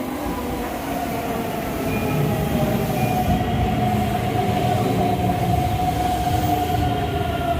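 Electric commuter train running into the station, its wheel and motor rumble growing loud and then holding, with a steady whine that sinks slowly in pitch as it slows.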